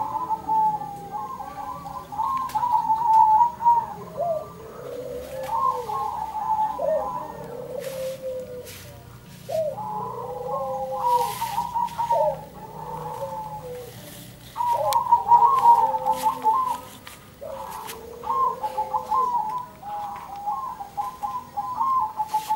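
Zebra doves (perkutut) cooing back and forth in repeated bouts. A higher series of rapid staccato coos overlaps a lower, slower series of rising-and-falling coos, with short pauses between bouts.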